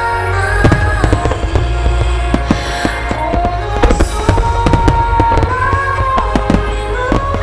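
Large aerial fireworks bursting in quick succession: many sharp reports and crackles over a steady low rumble, with held melodic music playing underneath.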